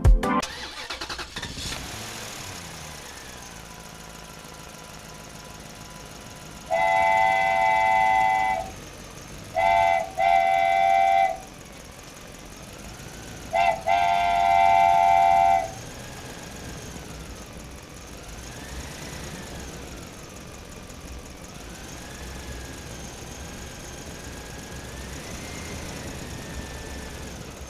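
Cartoon vehicle sound effects: a steady engine hum with a horn honking four times, a long blast, two shorter ones close together, then another long blast. Later a faint tone slowly rises and falls.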